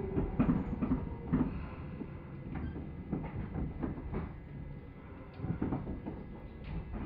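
Electric commuter train at a station: a low rumble with irregular knocks and clunks.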